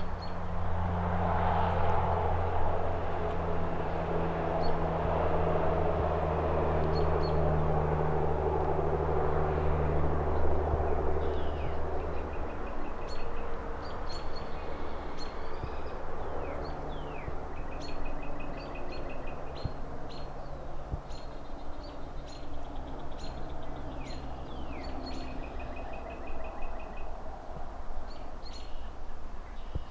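City traffic hum with a heavy vehicle's engine rumbling past for the first dozen seconds and a fainter engine later on. Small birds chirp and trill repeatedly from about ten seconds in.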